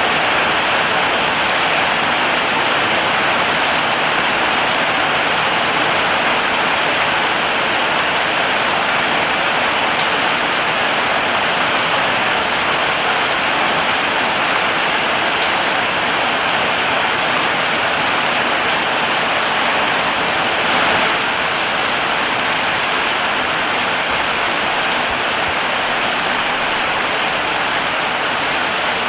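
Heavy rain falling steadily, an even hiss of drops on surfaces with a brief swell about 21 seconds in.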